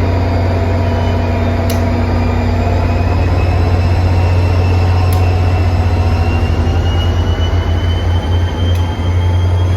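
Diesel locomotive train running with a heavy low drone and a whine that rises slowly in pitch as it gathers speed. A few sharp clicks come seconds apart, and the sound starts to pulse near the end.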